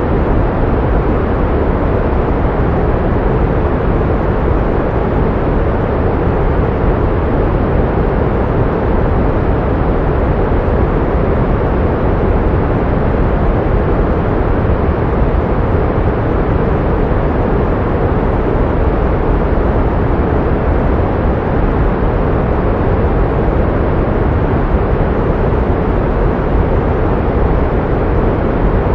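Pink noise: a steady, even hiss weighted toward the low end, unchanging throughout.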